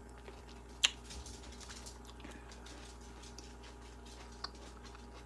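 A person chewing a green grape close to the microphone: faint wet mouth clicks and ticks, with one sharp click about a second in.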